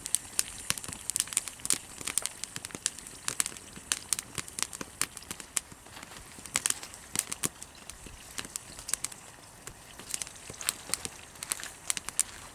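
Wood campfire crackling: sharp, irregular pops and snaps, several a second, over a faint steady hiss.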